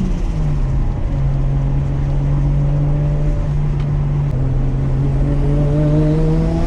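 Turbocharged RB25DET straight-six of a modified Nissan Skyline R33 running under way. Its note drops shortly after the start, holds steady, then climbs gradually through the second half as the car accelerates.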